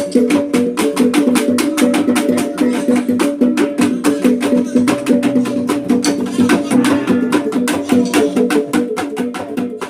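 Traditional Sumbanese gong ensemble with drum playing a fast, even beat over ringing gong tones, getting quieter near the end.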